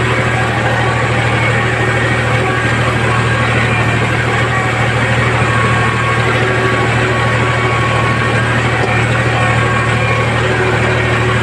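Tractor engine running steadily with a constant low hum, holding the same speed.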